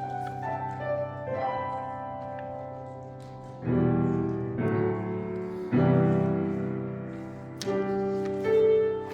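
Piano playing slow, sustained chords, with new chords struck every second or two.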